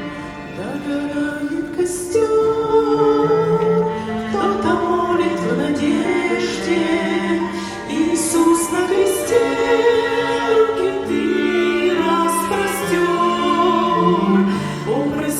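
A slow Christian song: voices sing long held notes over a soft accompaniment, with a choir-like sound.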